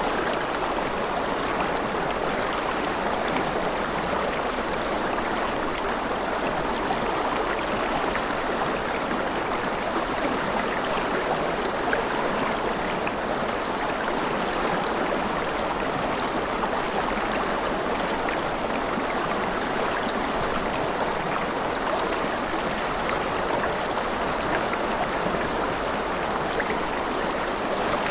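River water flowing and splashing in a steady, even rush with small scattered drips and splashes.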